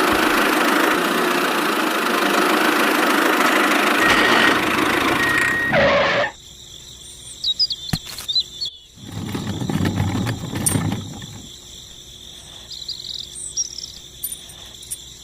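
A small motor running loud and steady, which cuts off suddenly about six seconds in. After it stops, a few short bird chirps and a brief low rumble are heard over quiet outdoor background.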